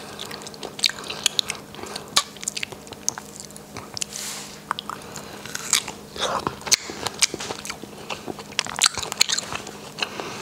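Close-miked eating of a chocolate-covered strawberry: bites and chewing with many short wet mouth clicks and smacks.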